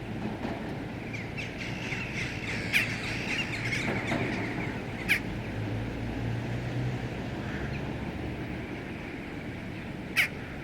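A flock of birds calling over a steady outdoor background, a dense chatter of short calls for a few seconds, with three short, sharp sounds standing out: about three, five and ten seconds in.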